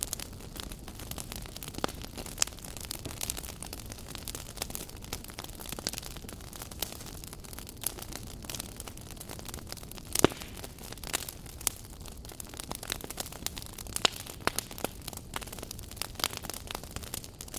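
Wood fire burning in a fireplace, a steady low hiss with frequent irregular crackles and pops, one sharp pop louder than the rest about ten seconds in.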